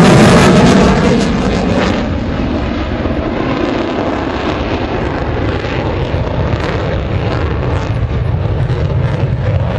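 Vintage SNJ-2 propeller aircraft flying past low, with radial engines running. The engines are loudest right at the start and their pitch drops as the planes pass, then settles into a steady drone.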